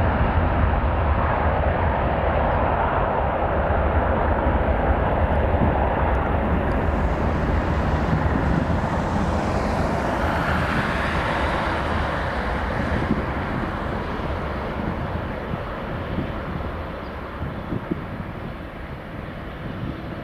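Airbus A330-300 jet engines at takeoff power, a loud steady rumble with a hissing edge that swells briefly about halfway through, then fades gradually over the last several seconds as the airliner departs.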